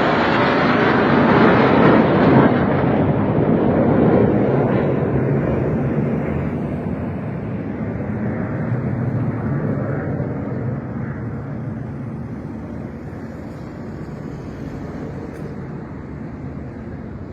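Fixed-wing aircraft passing: a broad rushing engine noise, loudest in the first few seconds, then slowly fading away.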